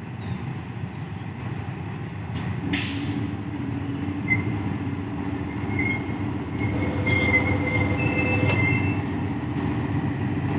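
GEA-class diesel-electric locomotive hauling a passenger train in at slow speed. Its engine drones steadily under a rumble that grows louder as it approaches. High-pitched metal squeals from the wheels sound on and off through the middle, with scattered clicks.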